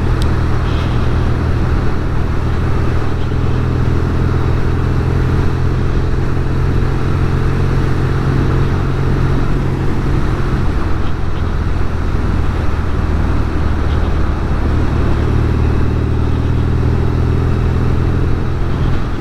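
Norton Commando 850 Mk2's parallel-twin engine running steadily under way, its pitch easing slightly for a few seconds midway and then coming back up.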